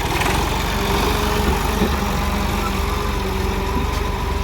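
Heavy diesel engine running steadily at idle, an even low drone.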